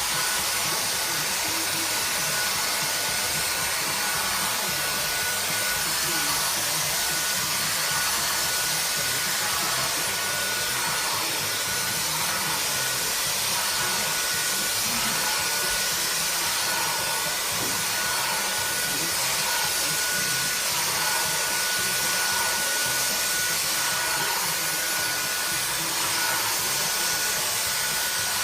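Vacuum cleaner running steadily with a thin high whine, being used to suck loose dead hair out of a cat's coat.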